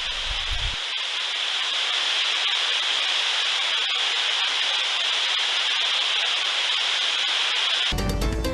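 Waterfall rushing: a steady, even hiss of falling water with no low rumble. Music comes in near the end.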